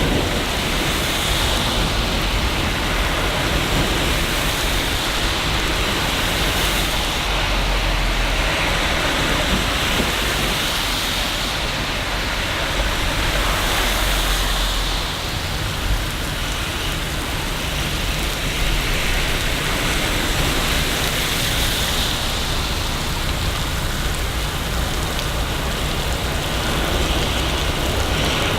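Steady, heavy rain hissing on city surfaces, with a low rumble underneath that swells for a few seconds a little way in.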